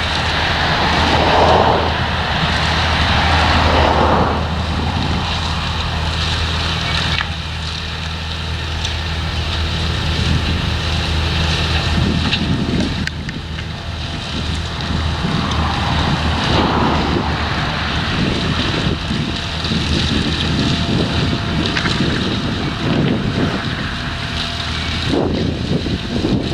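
Heavy farm machinery engine running steadily under load during potato harvesting, with wind gusting across the microphone several times.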